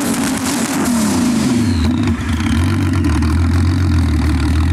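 BMW E30 drag car's engine held at high revs, then dropping back about a second in and settling into a steady idle.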